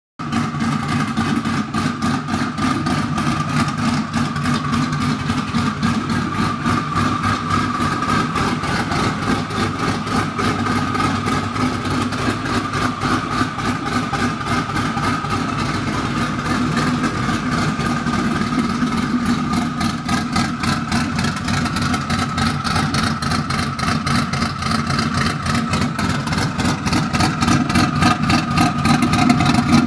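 Twin-turbocharged 4.6-litre two-valve Ford Mustang V8 idling with open downpipes, exhaust pulses straight out of the turbos with no exhaust system behind them. It runs steadily with a high whine over the exhaust note and gets a little louder near the end.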